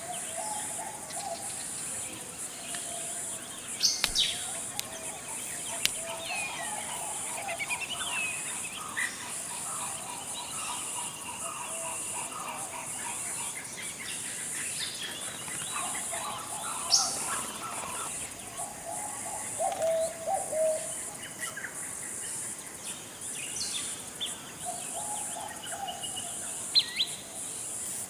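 Forest ambience: a steady high-pitched insect drone, with various birds calling and chirping on and off throughout, including a few sharp, high calls.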